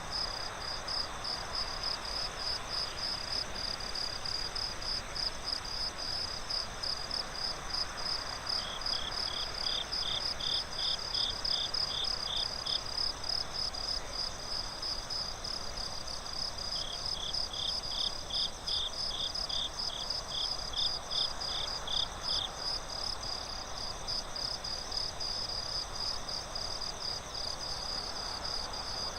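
Crickets chirping in a night-forest ambience: one chirps steadily and high, about four chirps a second, while a second, lower-pitched cricket joins in two bouts of a few seconds, over a soft steady hiss.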